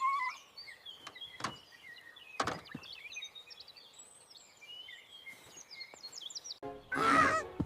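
Small birds chirping and twittering, with two short thuds about one and a half and two and a half seconds in. Near the end a much louder pitched, voice-like grunting sound comes in with music.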